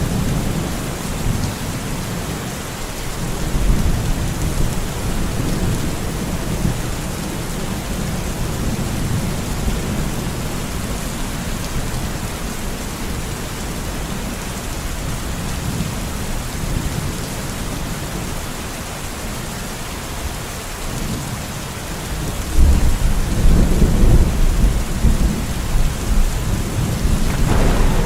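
Steady heavy rain falling on foliage and ground, with low thunder rumbling through it that swells louder near the end.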